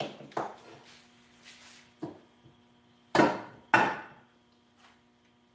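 Four sharp knocks, like tool strikes on a workbench or part; the two loudest come about half a second apart a little past three seconds in.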